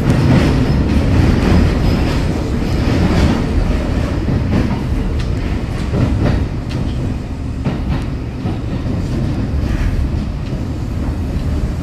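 Kintetsu electric commuter train running through a tunnel, heard from inside the passenger car: a steady low rumble with irregular clicks and knocks from the wheels on the track.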